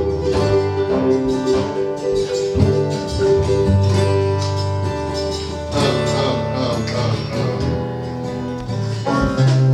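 Acoustic string band playing bluegrass-style music, with plucked acoustic guitar prominent over low held bass notes.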